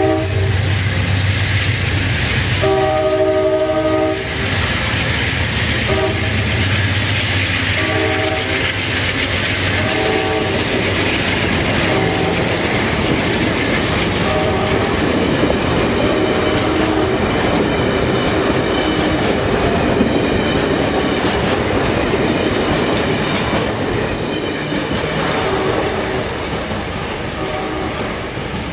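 Amtrak passenger train passing close by, its cars' wheels clattering over the rail joints. The locomotive horn sounds a long blast a few seconds in, then short blasts every couple of seconds, and the train fades slightly as it pulls away near the end.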